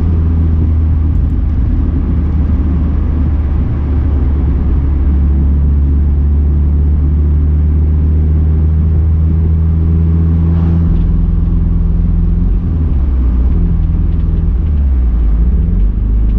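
A Mazda Miata's four-cylinder engine running under way as it misfires and loses power: the engine is dying. Its steady note drops about eleven seconds in and turns uneven after that.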